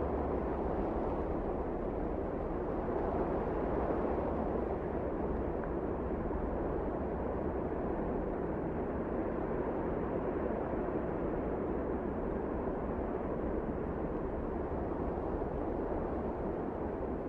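Blizzard wind blowing in a steady, even rush with a low rumble beneath it, holding at the same strength throughout.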